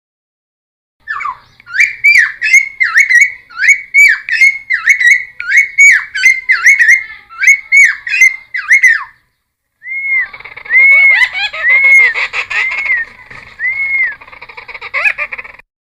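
Cucak timor (a friarbird) singing loudly: a fast run of repeated whistled notes, each dropping and turning back up, about two a second. After a brief pause it goes on with arched whistles over a busier chattering song.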